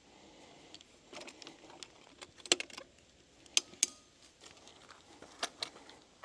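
A scattered series of sharp clicks and knocks, like objects or gear being handled, with the loudest pair about halfway through and another pair near the end.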